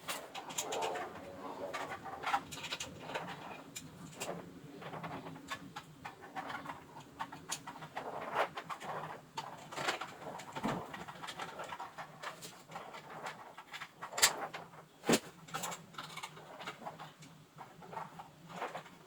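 A bird cooing, with scattered sharp clicks and knocks, the loudest two near the end, a second apart.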